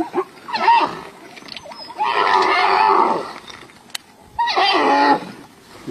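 Wild animal cries in three loud bursts, the middle one the longest at about a second and the last one clearly pitched.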